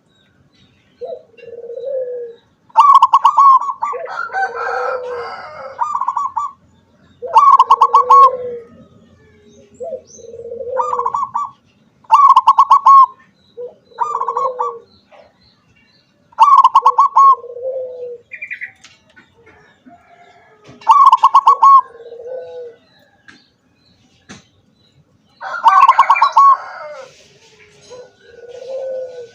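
Zebra dove (perkutut) cooing: about ten short coo phrases in a row with brief pauses, some higher and ringing, some lower.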